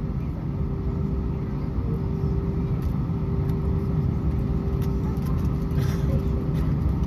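Steady low rumble of an Airbus A320 passenger cabin, with a constant hum.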